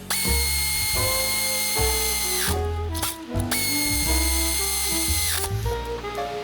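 A handheld electric power tool, drill-type, running in two bursts of about two seconds each, a steady high whine that winds down as the trigger is released. Background music plays throughout.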